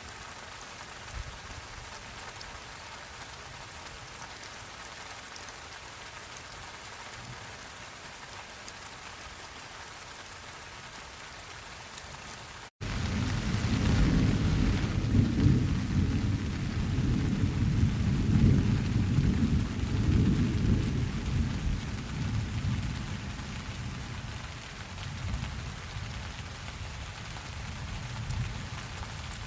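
Steady rain falling. About thirteen seconds in, after a momentary cut in the audio, a long low rolling thunder rumble sets in and slowly fades over about ten seconds, with the rain still going under it.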